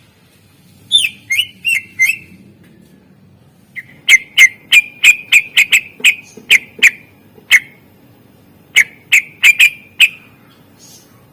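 Greater green leafbird (cucak ijo) singing loud, sharp whistled notes in bursts: a group of four about a second in, a rapid run of about a dozen from about four seconds in, and four more near nine seconds.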